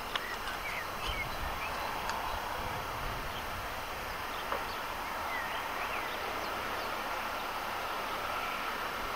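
Small birds chirping now and then over a quiet outdoor background. A faint steady hum comes in about halfway through.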